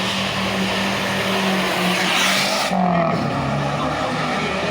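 Car engine held at steady revs, with a burst of tyre squeal about two seconds in, after which the revs drop.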